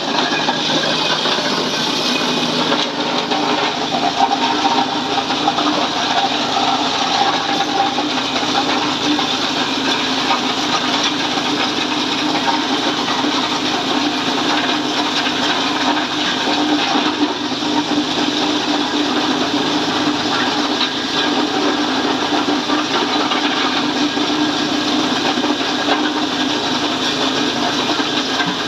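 Ice-crushing machine running steadily, a loud continuous rushing noise with a faint low hum under it.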